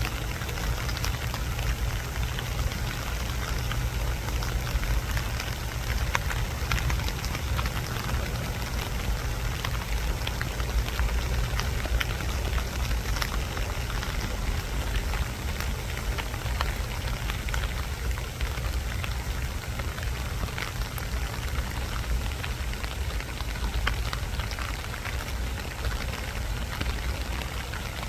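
Steady rainfall, a continuous hiss of rain dotted with many small drop ticks, over a constant low rumble.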